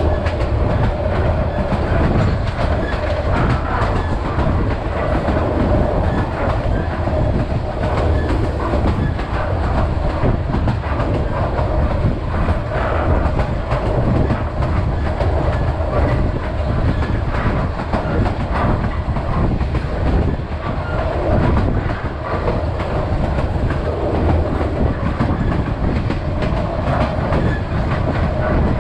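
Vietnam Railways SPT1 passenger train running steadily along the track: a continuous rumble of wheels on rails with a clicking over the rail joints.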